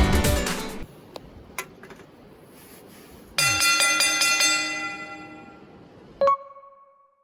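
Music fades out, then a bell-like chime starts suddenly about three seconds in and rings away over a couple of seconds. Near the end comes a short clink with a brief ring.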